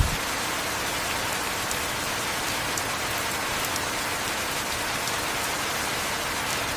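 Steady heavy rain: a dense, even hiss with scattered faint drip ticks. A brief low thud comes right at the start.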